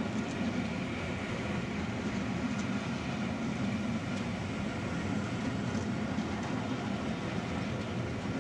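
Railway passenger coaches rolling past on the track: a steady rumble of wheels on rails.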